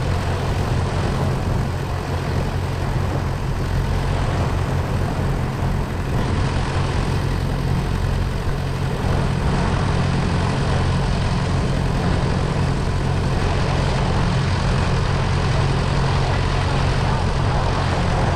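A boat engine running steadily under way: a deep, even hum with a dense rush of noise over it.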